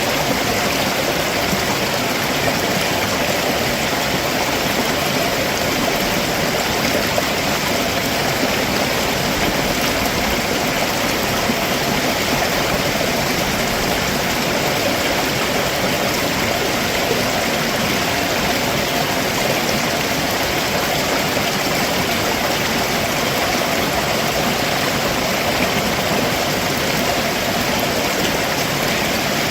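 Stream water rushing steadily over rocks below a waterfall, a constant full rushing noise with no breaks.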